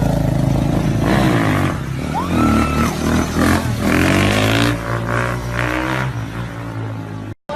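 Dirt bike engine running at high revs, its pitch rising and falling several times, cutting off suddenly near the end.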